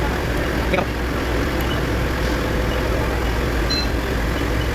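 A vehicle engine idling steadily, with a short click about a second in.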